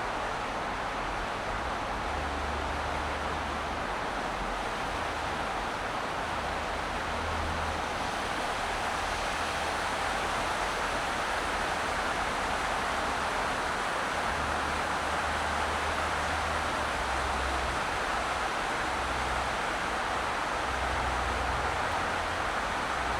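Steady road and tyre noise of a car driving, with a low rumble that swells and fades every few seconds.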